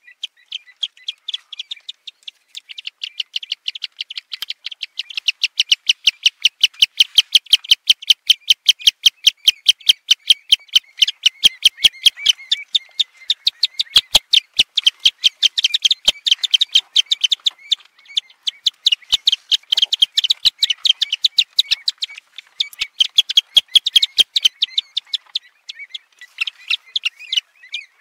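A fast, even series of short, high bird calls, about five a second, kept up without a break; it grows louder about five seconds in and eases off near the end.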